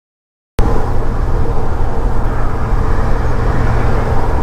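Truck engine and road noise heard from inside the cab while driving: a loud, steady, low rumble with a constant low hum. It cuts in suddenly about half a second in, after dead silence.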